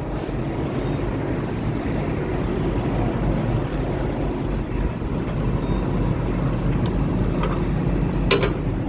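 Box truck's engine running with a steady low rumble. A short click comes near the end.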